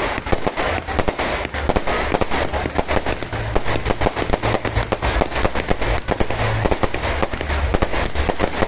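Many fireworks going off at once: a dense, unbroken barrage of overlapping bangs and crackles over a low rumble.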